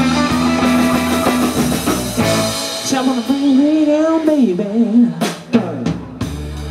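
Live blues-rock band playing electric guitar and drums. A chord is held for the first couple of seconds, then a wavering, bending lead line comes in, with a few sharp drum hits about five seconds in.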